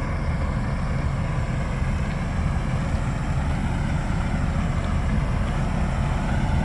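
Diesel engine of a Sterling water truck running steadily, a low rumble.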